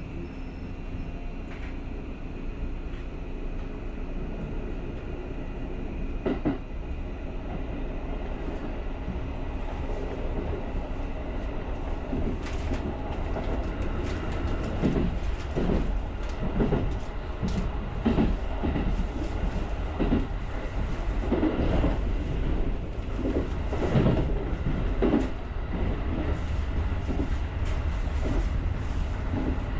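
Japanese rapid electric train running, heard from the driver's cab: a steady low rumble that slowly grows louder, with a faint steady hum at first. From about ten seconds in comes a run of clunks and clatter from the wheels on the track.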